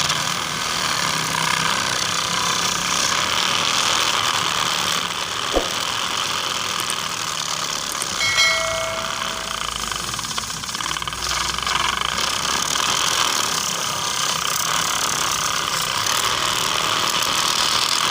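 Mini tractor loader running with a steady, even mechanical noise, with a single click about five seconds in and a brief horn-like tone about eight seconds in.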